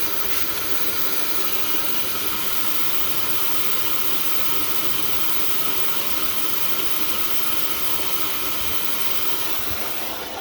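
A cheap blower running steadily, forcing air into a car's cold exhaust system to pressurise it and find a leak: an unbroken hiss with a faint motor whine.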